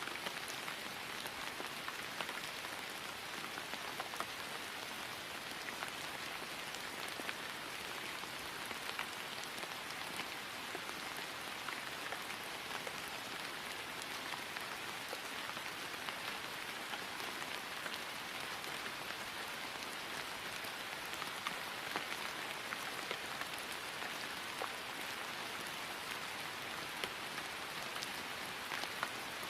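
Steady rain falling on grass: an even hiss of rainfall with many small scattered drop ticks.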